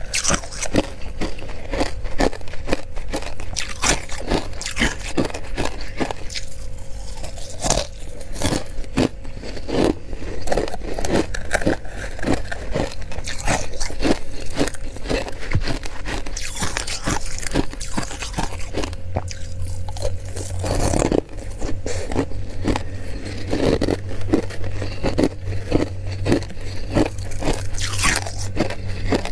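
Close-up crunching and chewing of crystallized humidifier frost: dense, irregular crisp crunches of ice crystals between the teeth, with a steady low hum underneath.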